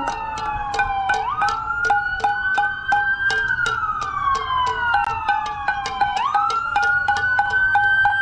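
Several emergency-vehicle sirens wailing together, each rising quickly then falling slowly, over pots and pans being banged in a fast steady beat of about four or five strikes a second.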